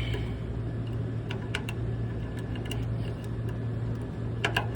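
Sharp clicks and snips of zip ties being cut off condenser fan motor wiring: a few about a third of the way in and a quick cluster near the end. Under them runs a steady low machinery hum.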